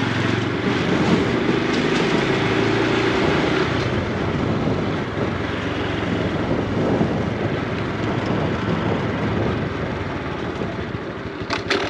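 Honda Super Cub C125's single-cylinder four-stroke engine and exhaust running while the bike is ridden. A clear engine note in the first few seconds gives way to a rushing road noise that grows a little quieter near the end.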